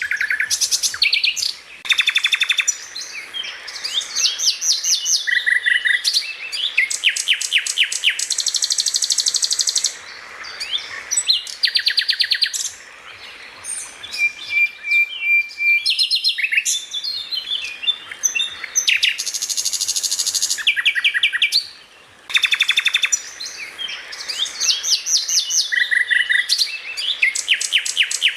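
A cucak ijo (greater green leafbird) sings a fast, varied song of rapid trills, repeated chips and short whistles with hardly a pause. This is 'tembakan', rapid-fire song, played as a recording that repeats the same passage about every 20 seconds.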